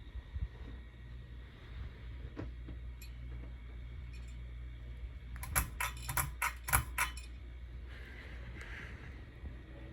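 Crest 4500 Series ceiling fan running with a steady low hum. About five and a half seconds in comes a quick run of sharp metallic clicks and rattles lasting about a second and a half.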